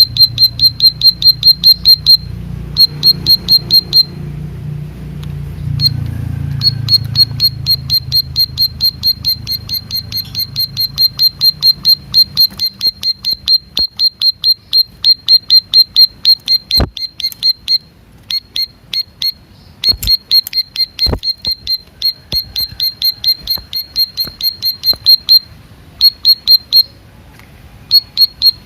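Ciblek sawah, a small prinia, singing a fast string of sharp, high 'tiit' notes, about six a second, in long runs with short breaks.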